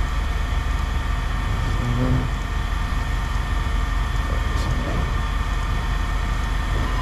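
Steady mechanical drone of running machinery: a constant low hum with several fixed tones above it, unchanging in level.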